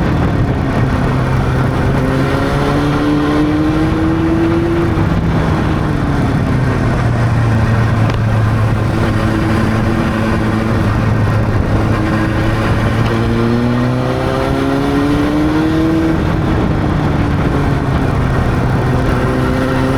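Honda CB600's inline-four engine under way, climbing in pitch as it accelerates three times, with steady cruising in between, over a constant rush of noise.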